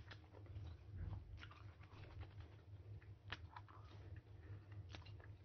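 Faint chewing and small wet mouth clicks of a person eating mango, scattered irregularly over a low steady hum.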